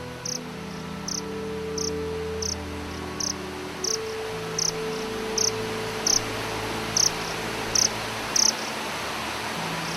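A cricket-like insect chirping in a steady rhythm, about one short high chirp every 0.7 seconds, growing louder and stopping about eight and a half seconds in. Under it a low sustained chord of soft music and a steady hiss that swells.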